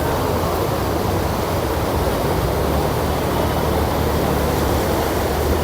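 Floodwater rushing: a loud, steady rush of noise with a heavy low rumble.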